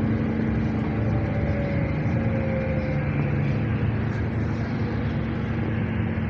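An engine running steadily with an even hum, a faint higher tone sliding slightly down in the first few seconds.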